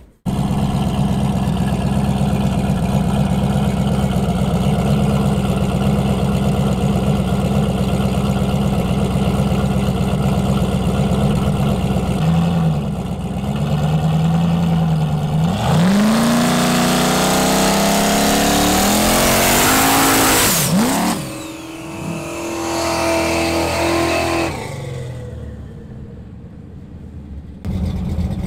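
Street-race engines, a turbo S10 pickup and a Le Mans: a loud, lumpy idle at the line, a few revs about 12 s in, then a hard launch with engine pitch climbing and a high whine rising with it. About 21 s in the sound drops sharply, and a steadier engine tone fades away.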